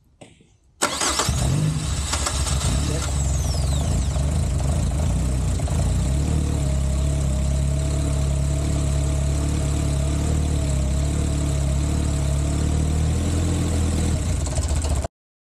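Freshly installed four-cylinder engine of a Caterham CSR 420R starting up: it catches about a second in, with a high whine that falls away over the next few seconds, then idles steadily with a faint steady whine over the idle. The sound cuts off suddenly near the end.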